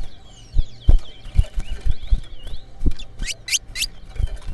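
Caged twa-twa seed finches singing: a run of short, falling whistled notes, with a quick burst of bright rising notes a little past three seconds in. Scattered low knocks sound through it.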